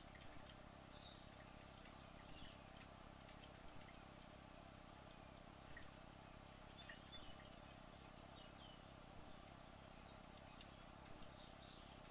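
Near silence: a faint steady background hiss and hum, with scattered faint, short high chirps and ticks.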